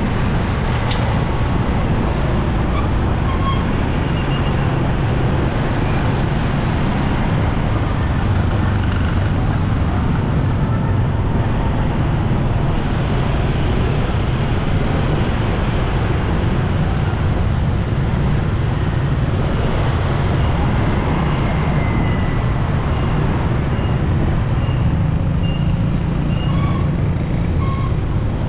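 Motorcycle riding in busy road traffic: the steady engine, wind and road noise of the ridden motorcycle, mixed with the surrounding traffic.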